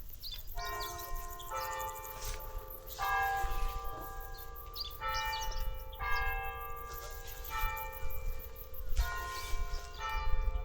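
Bells struck one after another at differing pitches, about eight strikes roughly a second or so apart, each ringing on into the next, over a steady low rumble.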